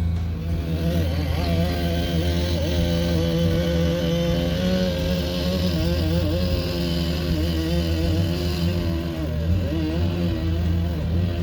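Engine-driven tree-removal equipment running steadily, its pitch wavering up and down as the load changes.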